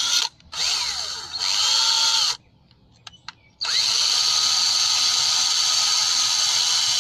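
Power drill run in short bursts, its pitch rising and falling, then held running steadily from about three and a half seconds in. It spins a cylinder-head bolt against a wire brush to strip grease and carbon off the threads.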